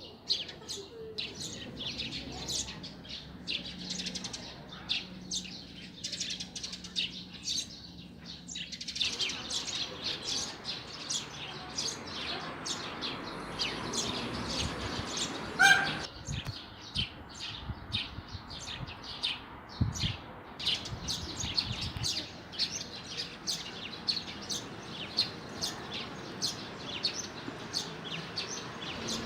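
Small songbirds chirping and singing continuously. About halfway through, a single loud, brief call cuts through: a peacock's.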